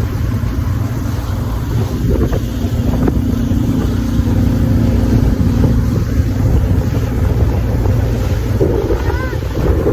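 Motorboat under way, its engine running with a steady low rumble and wind buffeting the microphone.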